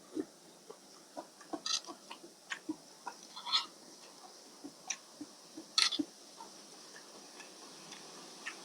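Close-up eating sounds of someone chewing rice noodles in fish curry: irregular wet clicks and smacks, with a few louder ones, growing sparse after about six seconds.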